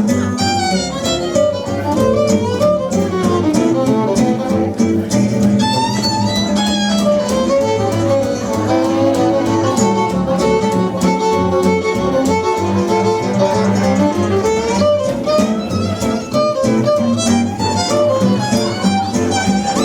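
Small swing band playing an instrumental chorus: a violin solo with vibrato over rhythm guitar and bass.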